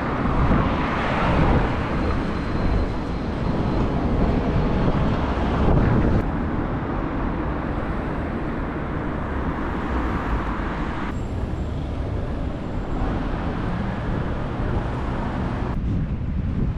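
Wind buffeting the microphone, a dense, gusty rumble heaviest at the low end, over city street noise.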